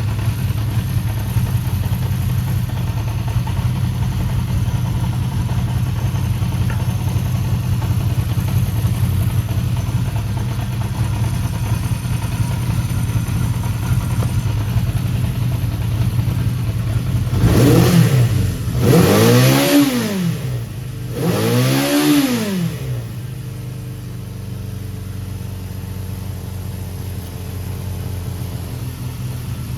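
Honda CB400F 408cc air-cooled inline-four with an aftermarket silencer idling steadily. About two-thirds of the way through, the throttle is blipped three times in quick succession and the revs rise and fall back, before the engine settles back to idle.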